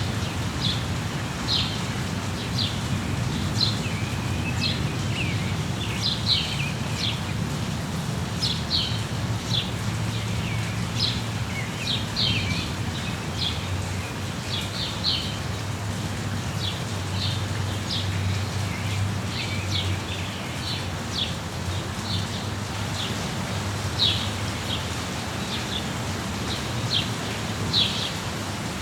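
Steady rain with birds chirping over it: short, high chirps that fall in pitch, repeating about once or twice a second, over a low steady rumble.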